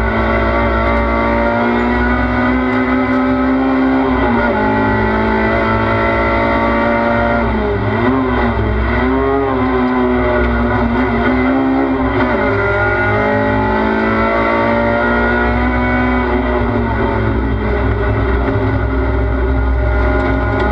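Race car engine heard from inside the cockpit, running hard at high revs. The pitch dips briefly about four seconds in, wavers up and down a few times from about eight to twelve seconds as the throttle is worked, and eases lower later on.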